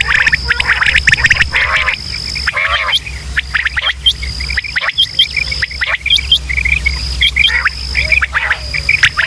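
Recorded quail calls played as a hunting lure: many short, quickly repeated chirping and clicking calls with hooked, falling notes, over a steady high-pitched tone and a low hum.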